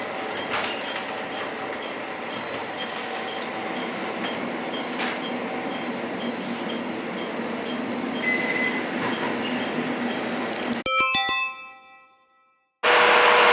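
Cabin noise of a JR Hokkaido H100 DECMO diesel-electric railcar running: a steady hum with a few steady tones and faint regular ticking. About eleven seconds in it cuts off to a short ringing chime, then a brief silence and a loud steady noise begins near the end.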